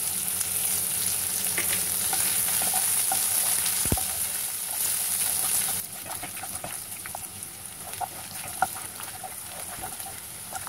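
Sliced onions, garlic-ginger paste and whole spices frying in hot oil in a non-stick kadai, sizzling steadily while a wooden spatula stirs them with light scraping taps. The sizzle drops in level about six seconds in.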